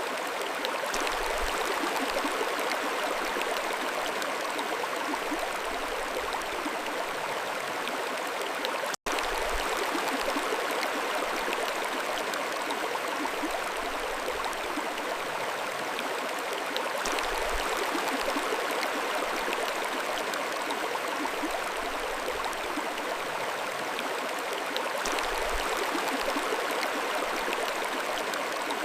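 Mountain stream flowing steadily, an even rushing and babbling of water over stones. The sound cuts out for a split second about nine seconds in, then resumes unchanged.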